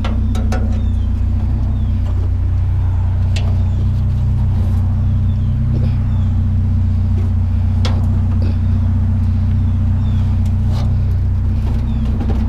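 Pickup truck engine idling steadily as a low, even hum, with a few short clicks and knocks over it.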